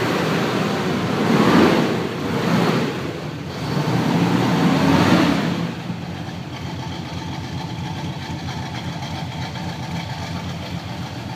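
1969 Pontiac GTO V8 engine running, with three louder swells in the first six seconds before settling to a steady idle.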